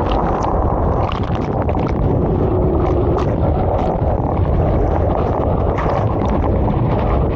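Water rushing around a rider's foam mat sliding down a water slide, with wind buffeting the camera microphone and short splashy crackles now and then.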